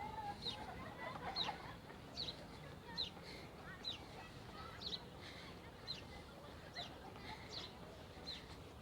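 Birds chirping: a short, high, downward-sliding note repeated about once or twice a second, with softer, lower chirps in between.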